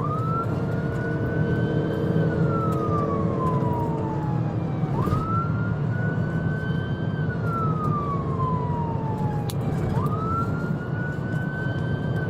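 Police car siren on a slow wail, rising quickly then falling away over about three seconds, repeating about every five seconds, over a steady low rumble of engine and road noise.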